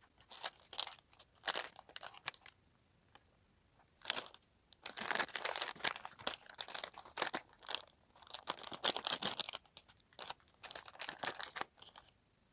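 Crunchy snack food being bitten and chewed, in four bursts of crackly crunching with short pauses between them.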